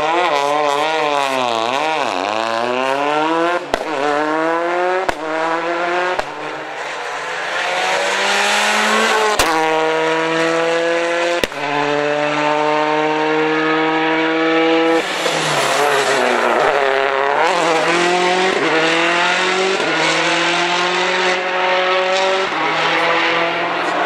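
Rally car engine revving hard through the gears, its pitch climbing and then dropping sharply at each shift, with a stretch of steady high revs about midway. A few sharp cracks come at some of the gear changes.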